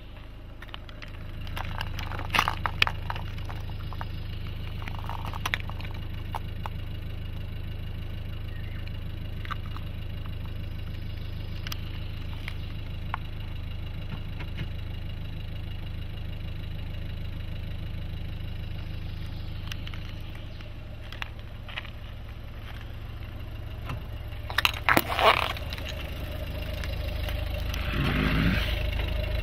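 Car engine idling steadily, with scattered clicks and light knocks as small plastic toys are handled and set down on the pavement. Near the end the engine note rises.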